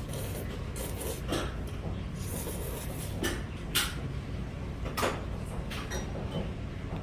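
Eating sounds while eating jjajangmyeon: a handful of short, sharp clicks and mouth smacks, the loudest about four and five seconds in, over a steady low background hum.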